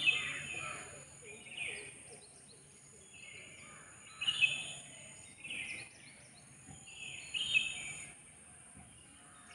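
Outdoor ambience of several birds calling in short repeated bursts over a steady high hiss, with the loudest calls near the start, about halfway and about three quarters through.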